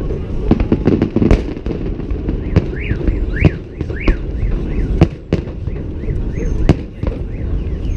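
Fireworks salute: sharp bangs of bursting shells every half second to second, over a continuous low rumble. Through the middle a repeating rising-and-falling whooping tone sounds several times.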